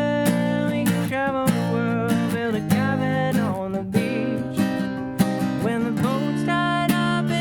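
Acoustic guitar strummed through a song, with regular strums and sustained, ringing chords and melody notes.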